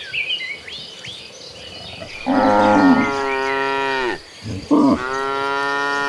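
Cattle mooing: two long moos, the first starting about two seconds in and the second near the end, each dropping in pitch as it finishes.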